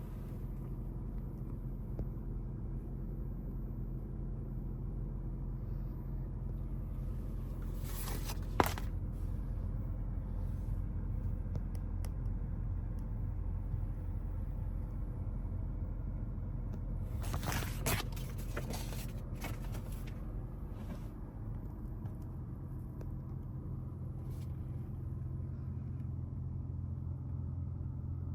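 Low, steady rumble of the car idling, heard inside the cabin. A sharp click comes about eight seconds in, and a short run of clicks and rustles about eighteen seconds in.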